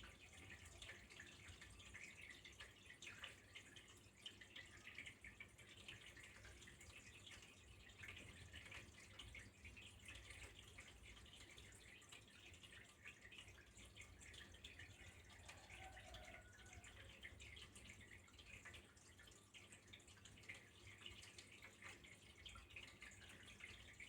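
Faint flowing water, trickling and dripping steadily in a dense patter of small drops, over a low steady hum.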